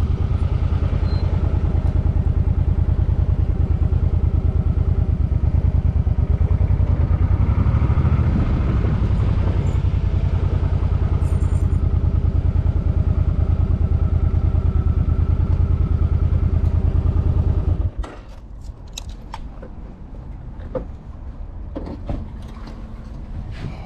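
Suzuki M50 motorcycle's V-twin engine idling steadily, then switched off about 18 seconds in. Then a few light clicks and clatter follow.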